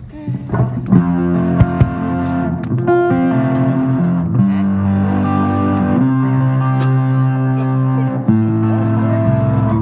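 Guitar played through an effects unit, sustained chords changing every second or two, starting about half a second in after a quiet moment.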